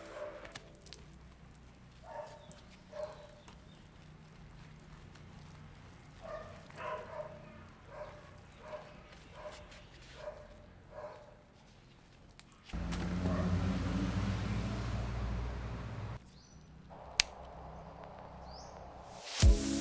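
A dog barking repeatedly, about one bark every 0.7 seconds. Then a few seconds of steady rushing machine noise with a low hum that stops suddenly, and a single sharp click.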